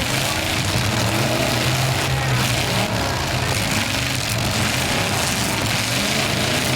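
Several demolition derby car engines running, revving up and down again and again over a steady low rumble.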